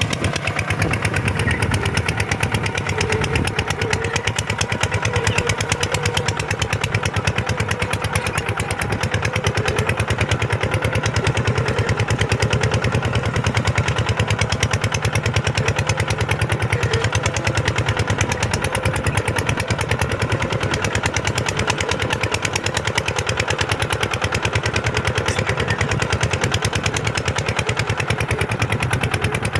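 Kubota tractor's diesel engine running steadily at an even speed, pulling a plow through sand.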